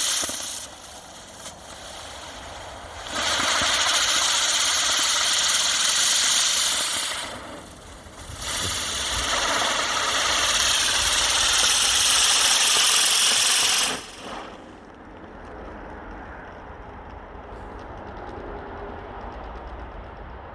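Swirl and Twirl spinning firework burning and spinning very fast, giving a loud hiss in three surges with short dips between. The hiss cuts off sharply about fourteen seconds in, leaving a quieter rumble.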